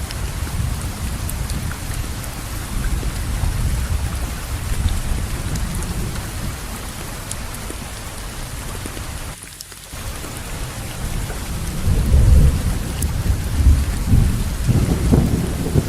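Steady heavy rainfall with low rolling thunder, the rumble swelling louder in the last few seconds. The sound thins out briefly about halfway through.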